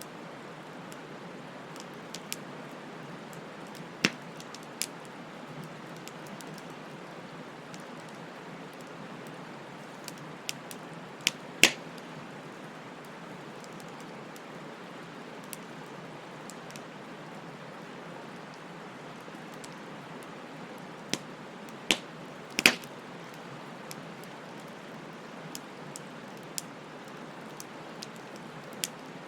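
Wood fire crackling: a steady hiss with scattered sharp pops and snaps, two of them louder, about a third of the way in and again about three quarters of the way in.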